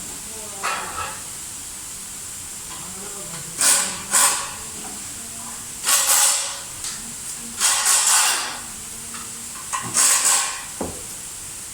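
Short bursts of hissing air, one after another every second or two, some coming as quick pairs, over a faint steady high whine.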